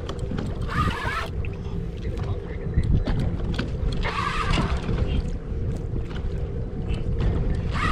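Wind buffeting the microphone and water moving against a kayak hull at sea, a steady low rumble, with a few short louder noises about a second in, around four seconds and near the end.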